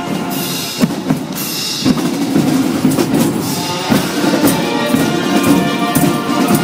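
Holiday music with drums: a drum line's snare and bass drum hits over pitched music.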